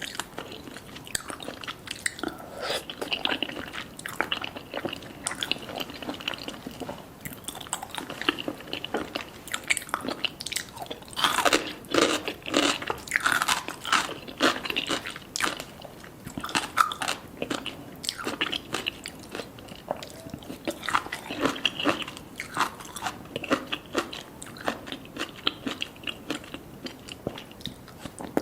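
A person biting and chewing crunchy food: irregular crisp crunches coming in uneven runs, loudest and busiest in the middle.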